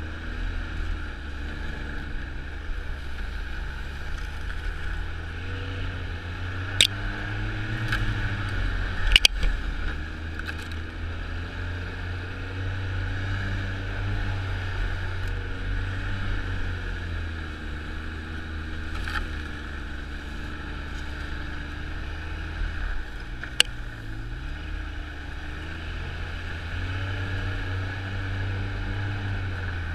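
Snowmobile engine running under way, its pitch rising and falling slowly with the throttle over a steady low rumble. A few sharp knocks cut through, the loudest about a third of the way in and again about four-fifths of the way in.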